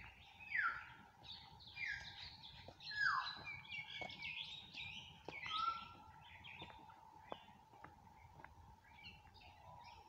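Several birds chirping, a run of short, sharply falling whistled notes that come thickest in the first five seconds and thin out after. A faint steady high tone sounds beneath them.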